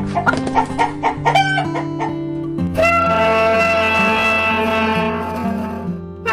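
A rooster crowing once in a single long call that starts about halfway through, over plucked-string background music; before the crow, a chicken clucks among the rhythmic music notes.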